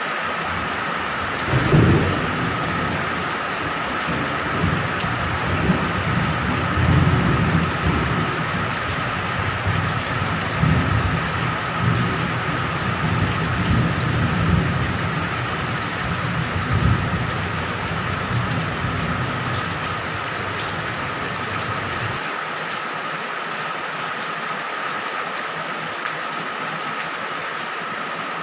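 Steady rain with thunder: a sharp thunderclap about two seconds in, then rolling rumbles in waves that cut off suddenly about three-quarters of the way through, leaving only the rain.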